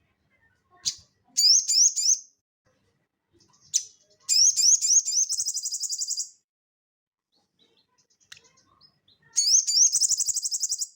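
A sogon songbird singing in lively bursts: three phrases, each opening with a single sharp note followed by a run of quick rising whistled notes that speed up into a rapid high trill.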